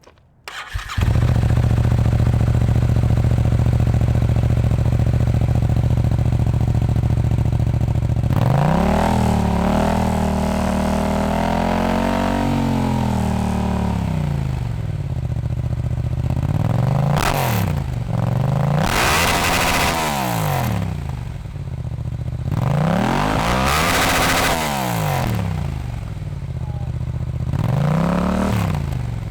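2019 Yamaha MT-07's parallel-twin engine through a Yoshimura R77 carbon-fibre exhaust, started from cold: it cranks and catches about a second in, then idles steadily. From about eight seconds in it is revved, first one longer rev that rises and falls, then several shorter throttle blips.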